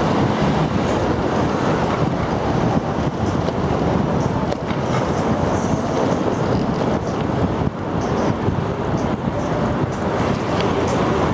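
Steady city traffic and road noise, an even rush with no single event standing out, picked up from a moving hand-trike.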